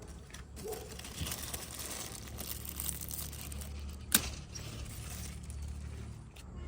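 Rustling and crinkling handling noise, with many small crackles and one sharp click about four seconds in.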